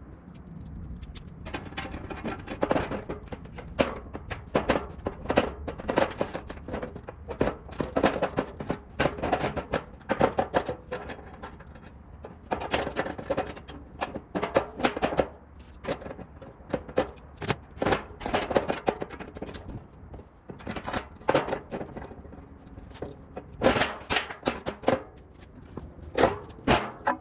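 Workshop clatter: a rapid, irregular run of knocks and clicks from tools and metal parts being handled.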